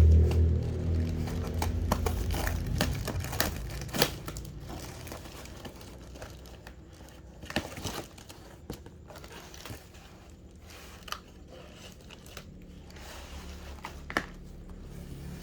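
Scattered crinkling and crackling clicks of something being handled, over a low rumble that fades away in the first few seconds.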